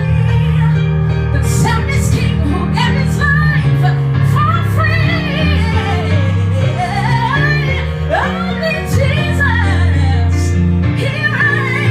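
Live gospel band music with a woman singing gliding vocal runs that sweep up and down over sustained low bass notes.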